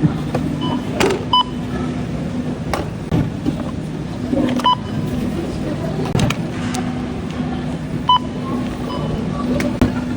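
Short electronic checkout-scanner beeps, three clear ones a few seconds apart, over a steady low hum and scattered clicks and knocks.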